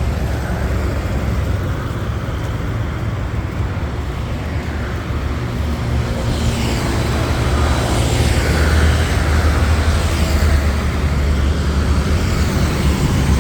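Road traffic on a busy multi-lane road: a steady rumble of engines and tyres, swelling as a vehicle passes close by about halfway through.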